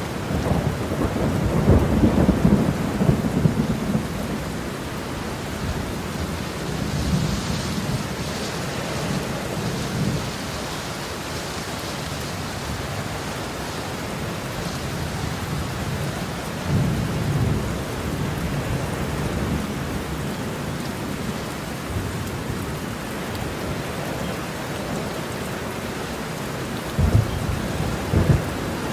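Heavy rain falling steadily under a thunderstorm, with rolling thunder that is loudest in the first few seconds, lighter rumbles later, and two short, sharp claps near the end.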